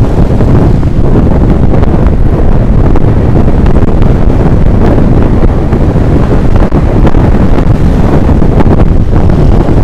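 Heavy wind buffeting the microphone: a loud, steady, rumbling roar with no break.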